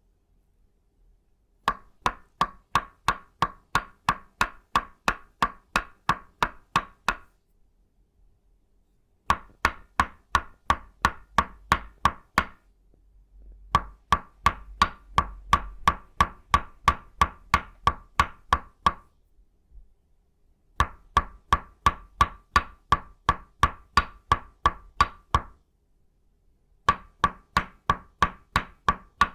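Tok Sen tapping: an itaúba-wood mallet strikes a wooden peg in quick, even runs of about three to four knocks a second, with a short pause between runs. Each knock has a hollow, pitched wooden ring.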